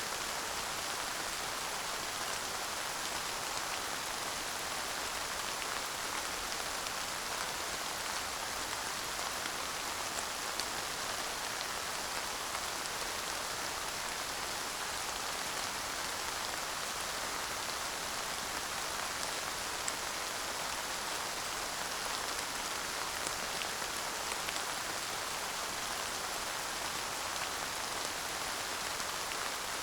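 Steady light rain falling, an even hiss of drops with a few faint individual drop ticks and no thunder.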